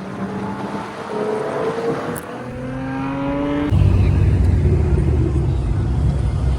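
Sports car engine accelerating, its pitch rising with a gear change a little over two seconds in. Almost four seconds in the sound cuts abruptly to a louder, deep, steady engine rumble.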